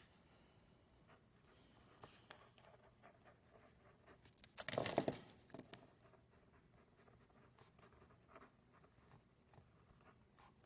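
Faint scratching of a pencil or stylus writing and drawing, with a louder, quicker stretch of scratching about five seconds in.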